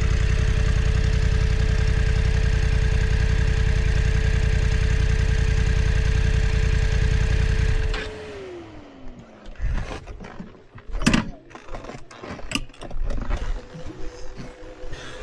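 BMW F900 XR's parallel-twin engine idling steadily, then switched off about eight seconds in, a whine falling away as it stops. Scattered clicks and knocks follow.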